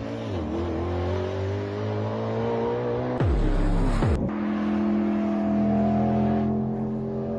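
A car engine running and revving, its pitch climbing slowly for about three seconds, then dropping steeply twice before it settles into a steady note.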